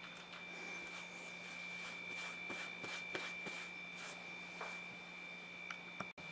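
A faint steady high-pitched whine over a low hum, with small scattered clicks.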